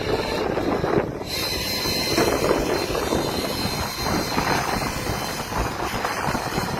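Wind buffeting the microphone over a steady low rumble from a fishing boat at sea.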